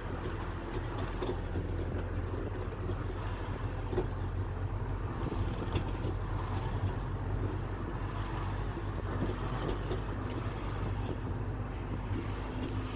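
Audi S3 8P on the move, with steady low engine and road noise and scattered sharp knocks and rattles from the rear left suspension. The suspension was recently changed to coilovers, and the owner suspects the top mounts.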